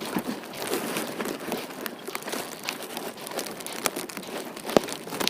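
Footsteps crunching through icy slush and ice pellets, a continuous crackling crunch with scattered sharp ticks; the loudest tick comes near the end.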